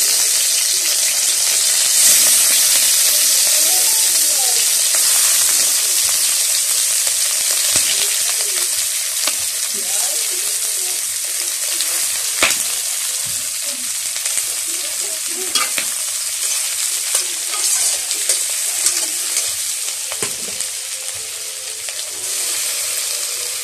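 Whole raw shrimp sizzling in hot oil with garlic in a steel wok, the sizzle gradually easing. A few sharp clicks of a metal utensil against the wok are heard as the shrimp are stirred.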